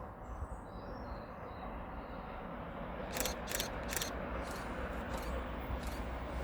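A train approaching on the line, a steady rumble growing slowly louder, with a few sharp clicks about three seconds in. A bird chirps briefly near the start.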